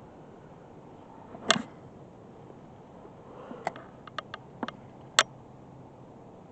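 A handful of sharp clicks and knocks: a loud one about a second and a half in, a quick run of smaller ones around four seconds, and another loud click a little after five seconds.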